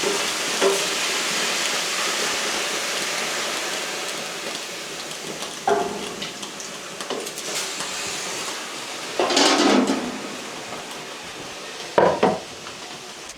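Pots, pans and cutlery clinking and knocking a handful of times, with a longer rattle about two-thirds of the way through, over a steady hiss that slowly fades.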